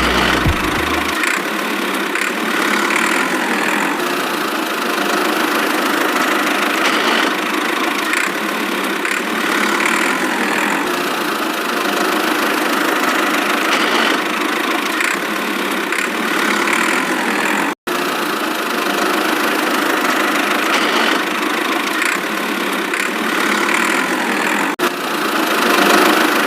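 An engine running steadily, with a brief cut-out about two-thirds of the way through.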